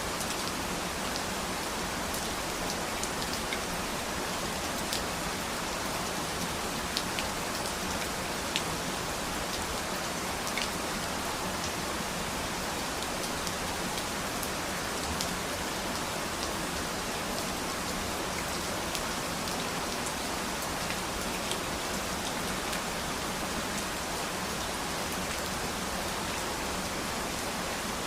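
Steady rain falling and pattering on a surface, with individual drops ticking sharply here and there.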